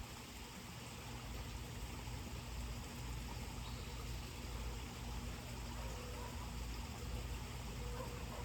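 Steady backyard outdoor ambience: an even hiss over a low rumble, with a few faint short high notes in the second half.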